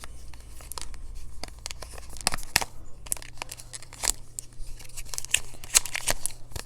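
Eyeshadow palette packaging being torn and crinkled open by hand: irregular crackles and ripping noises throughout.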